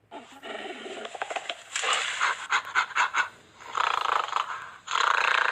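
Livestock calling: a series of rough, noisy calls in several bursts, with scattered clicks between them.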